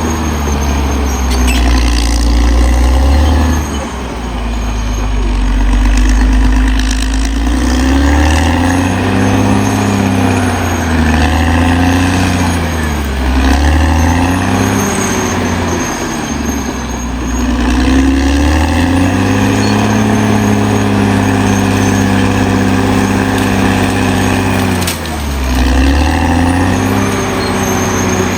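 Caterpillar D6R XL bulldozer's diesel engine working under heavy, shifting load, its pitch dipping and climbing back every few seconds.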